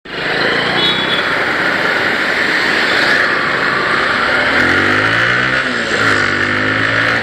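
Motorcycle riding on the road: steady rushing wind and road noise over the microphone. About halfway through, the single-cylinder engine note rises and falls, then settles at a steady pitch.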